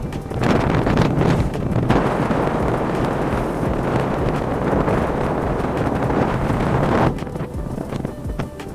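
Wind rushing over the microphone of a moving vehicle, with the vehicle's steady low rumble underneath; the rush eases off about seven seconds in.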